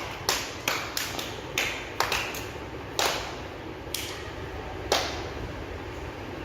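A small group of children clapping, uneven and out of step, thinning to a last few single claps about five seconds in.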